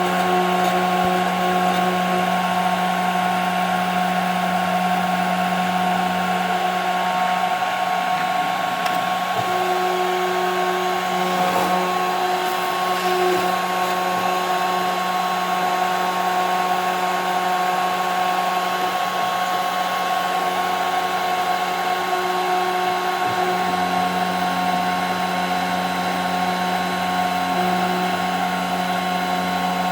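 CNC router spindle running with a steady whine as it cuts plexiglass, while the stepper motors' tones change pitch and switch on and off every few seconds as the axes move.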